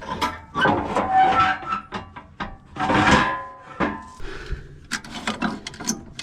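Irregular clicks, knocks and scraping rubs of something being handled, with a couple of louder scraping stretches about one and three seconds in.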